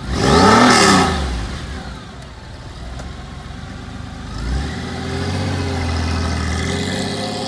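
2001 Honda Gold Wing 1800's flat-six engine breathing through an aftermarket Cobra exhaust: a sharp throttle blip near the start, revving up and dropping back within about a second. It then settles to an idle, with a smaller rise about halfway through.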